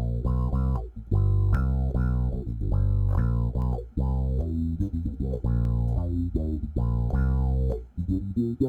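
Electric bass with roundwound strings played through a Mutron-style envelope filter pedal: a line of plucked notes, each with a wah-like sweep at its attack, with short breaks about a second in, midway and near the end.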